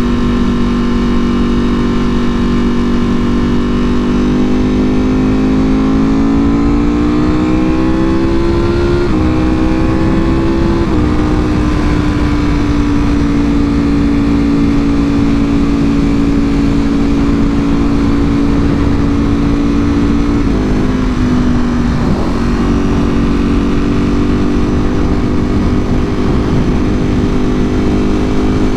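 2024 Ducati Panigale V4R's V4 engine through an Akrapovic full exhaust, heard from the bike while riding, over a constant rush of wind. The engine note rises over several seconds, shifts in two quick steps about a third of the way in, holds steady at cruising speed, then drops a little about three-quarters through.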